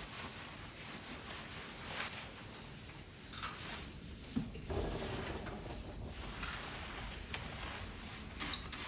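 Light household handling sounds: a few soft knocks and rubs over a steady hiss.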